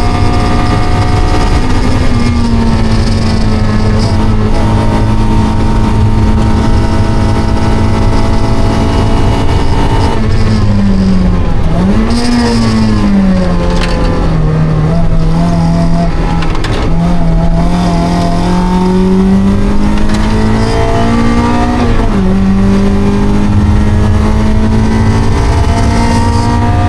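Mazda NB Roadster's stock 1.8-litre four-cylinder engine being driven hard on track: revs held high, then falling under braking about ten seconds in with a quick blip on the downshift, then climbing steadily through the gears with upshifts near the end. A steady rumble of wind and road noise runs underneath.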